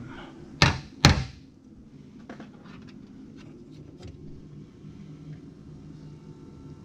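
Two sharp knocks about half a second apart, then a few faint clicks over a steady low hum.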